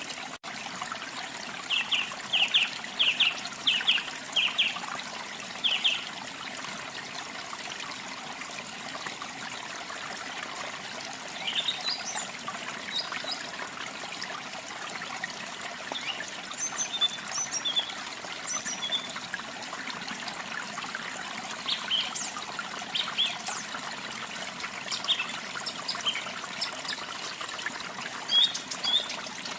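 Water trickling steadily, with small birds chirping over it: a quick run of short chirps about two to six seconds in, then scattered chirps and short rising whistles through the second half.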